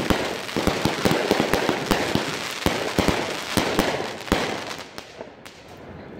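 Fireworks going off: a rapid, irregular run of sharp bangs over continuous crackling, thinning out and fading away near the end.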